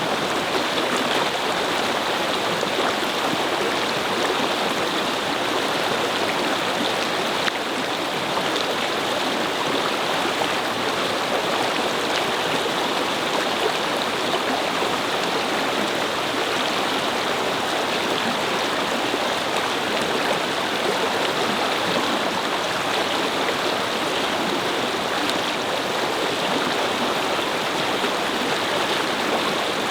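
A brook flowing over stones, a steady babbling rush of water.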